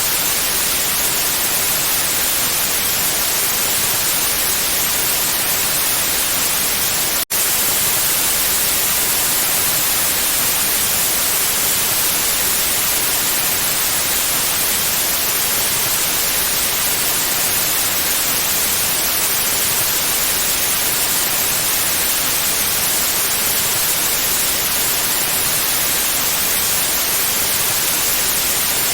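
Steady, loud white-noise hiss, even and bright with most of its energy in the highs, broken by a momentary dropout about seven seconds in.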